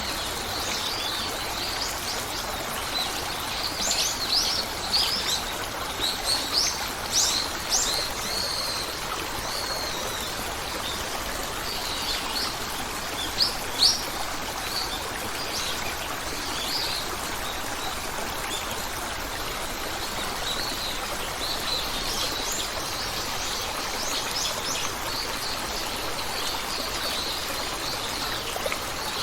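Steady flow of a stream with small birds chirping over it in scattered bursts of short, high calls, two sharp calls standing out about halfway through.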